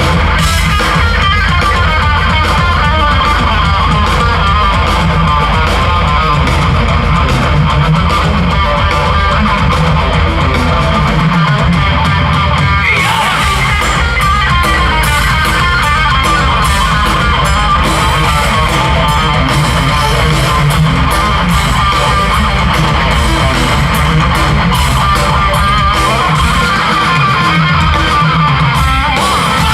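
Rock band playing live and loud, an electric guitar line over bass and drums, with no vocals. The low end drops out briefly twice, about a third of the way in and near the end.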